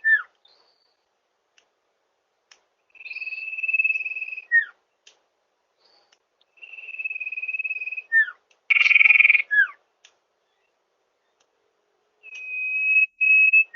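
Common iora (cipoh) calls played as a lure recording: long, steady high whistles of about a second and a half, each ending in a quick falling note, repeated three times after the tail of an earlier call. About nine seconds in comes a short, harsh rasping note.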